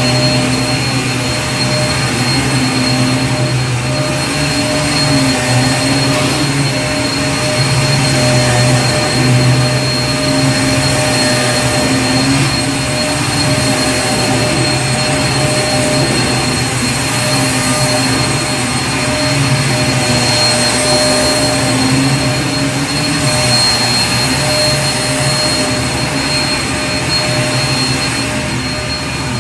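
Vacuum cleaner running steadily, its motor hum and high whine held over an even rush of air, with a slight waver in the low hum.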